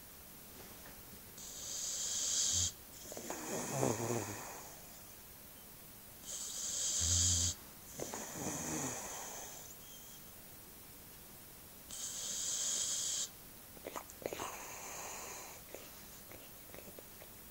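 A boxer dog snoring in her sleep: three slow breaths about five seconds apart, each a hiss followed by a rattling snore, the last one fainter.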